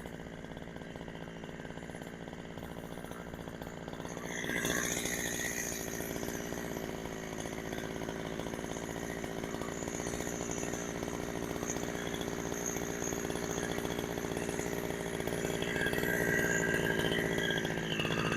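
Two-stroke engine of a Husqvarna 372XP clone chainsaw idling steadily, with no revving, a little louder about four and a half seconds in. The saw runs on a freshly fitted genuine carburettor whose high and low jets have just been adjusted.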